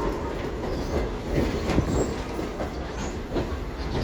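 Passenger train car rolling along the track: a steady rumble with irregular clacks from the wheels on the rails.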